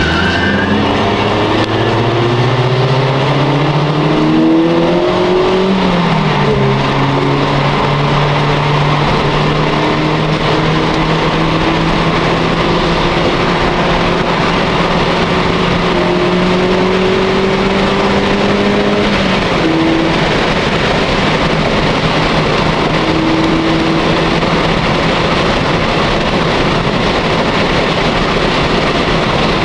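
A car engine heard from inside the cabin, accelerating hard with rising pitch. The pitch drops at a gear change about six seconds in, then climbs slowly as the car keeps pulling at speed, and eases off about nineteen seconds in. Loud road and wind noise runs underneath throughout.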